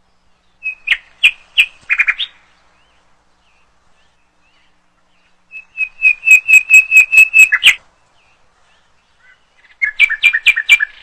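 A bird singing: three bursts of quick, evenly spaced high chirps on one pitch. The middle burst is the longest and loudest, at about six chirps a second.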